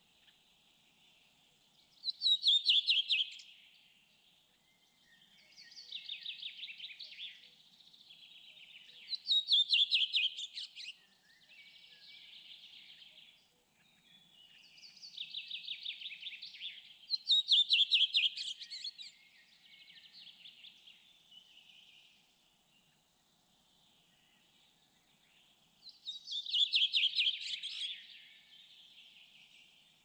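A songbird singing: loud, fast trilled phrases about every eight seconds, four in all, with softer warbling phrases between them.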